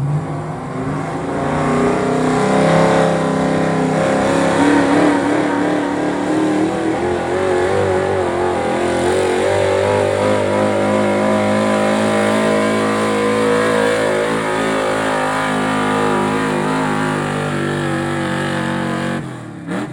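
Stock gas pickup truck engine running hard under load while pulling the sled. Its pitch climbs over the first several seconds, then holds at high revs with a slight waver, and it cuts off suddenly near the end.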